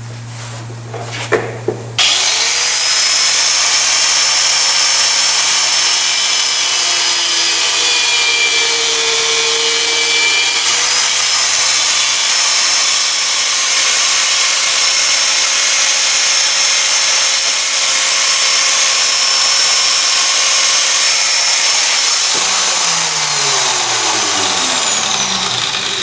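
Angle grinder cutting a bolt down to length: the motor starts abruptly about two seconds in, runs loudly through the cut for about twenty seconds, then is switched off and winds down with a falling whine near the end.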